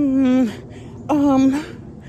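A woman's voice singing two held notes, each about half a second long at a steady pitch, the first dipping at its end.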